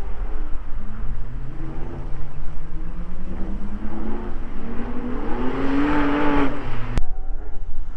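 Porsche Cayman R's flat-six engine accelerating hard, its pitch rising steadily through the revs for several seconds, then cut off abruptly with a click near the end.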